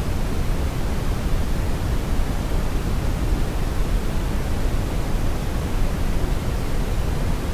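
Steady brown noise: a constant, even rush weighted heavily toward the low end, without change or events.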